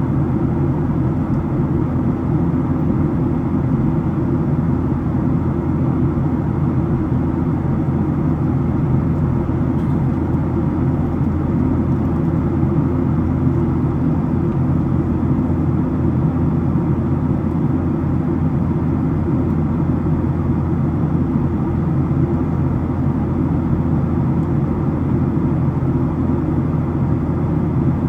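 Steady cabin noise inside a Boeing 737-700: the low, even drone of its CFM56 jet engines and the air rushing past the fuselage, unchanging throughout.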